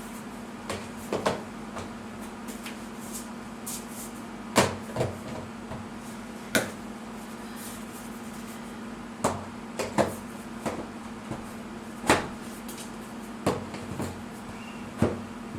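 Hollow plastic knocks and clacks as molded plastic shelf legs and parts are handled and set against each other, scattered irregularly with a few louder ones. A steady low hum runs underneath.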